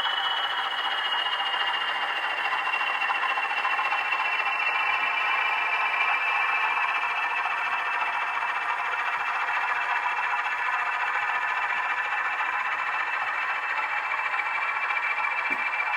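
Model diesel locomotive running along the track: a steady whirr with a thin whine that slowly drops in pitch as it eases its speed.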